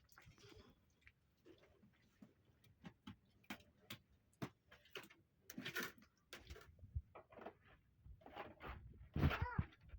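Scattered light knocks and clicks at an irregular pace, like objects being handled, with a short pitched call about nine seconds in.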